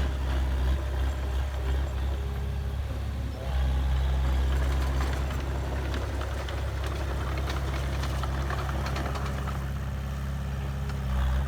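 Heavy diesel earthmoving machinery running steadily, its engine hum dipping briefly about three and a half seconds in, with scattered rattling and clicking in the second half.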